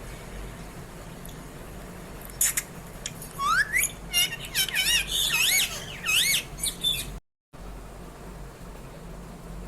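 Young parrot calling: a run of loud squawks and chirps, one rising sharply in pitch and others wavering up and down, starting a couple of seconds in and stopping near the end.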